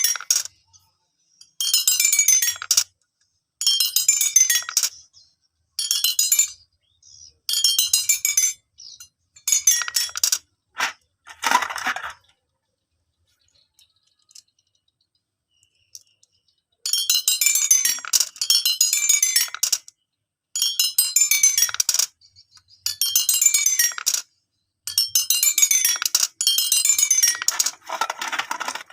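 Marbles running down the bars of a xylophone marble run, each pass a quick falling run of bright ringing notes lasting about a second, repeating roughly every two seconds. A few single louder strikes come around ten to twelve seconds in, followed by a pause of about four seconds before the runs resume.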